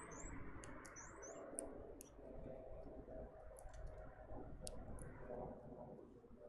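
Small songbirds at a backyard feeder: two quick pairs of high, down-slurred chirps in the first second and a half, then a scatter of sharp, high ticks, all faint over a low background rumble.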